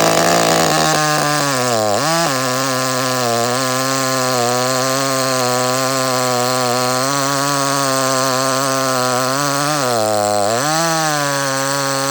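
Ported Echo CS-310 two-stroke chainsaw at full throttle, cutting a cookie off an 18-inch oak stump, a cut that maxes out the saw. The engine holds a steady pitch under load, dipping briefly about two seconds in and again near the end.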